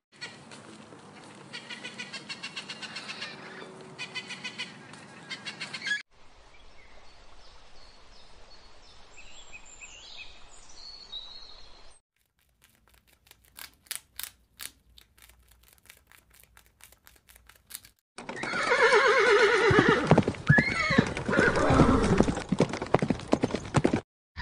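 A run of separate animal-sound clips. A parrot calls in quick repeated squawks. Then comes a quieter stretch with faint high chirps, then a series of sharp clicks from a rat. Last and loudest, a horse whinnies.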